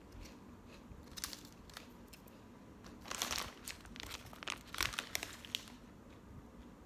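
A snack wrapper crinkling in clusters of short, crackly rustles as it is handled.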